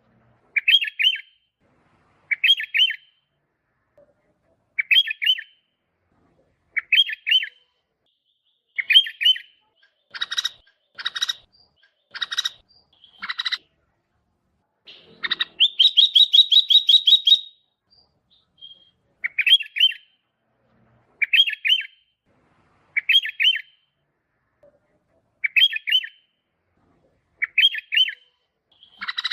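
Sooty-headed bulbul singing: short bubbly phrases repeated about every two seconds, with a run of rapid notes near the middle.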